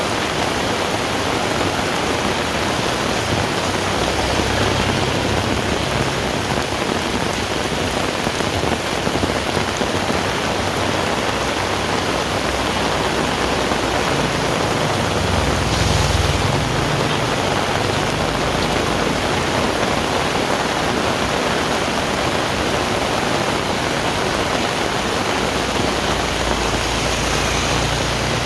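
Heavy rain falling steadily, a dense even hiss, with a brief low rumble swelling up about halfway through.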